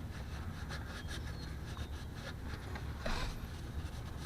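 Quick rubbing and scraping strokes, several a second, over a steady low hum.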